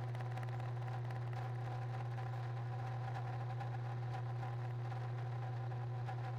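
Steady, unchanging low machine hum with faint constant whines above it, as from an electric motor running.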